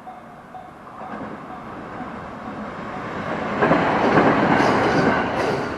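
A 521 series electric train passes a level crossing: the rumble of its wheels on the rails builds and is loudest about halfway through, with a couple of sharp clicks over rail joints near the end. At the start the crossing's warning bell dings about twice a second and is soon drowned out by the train.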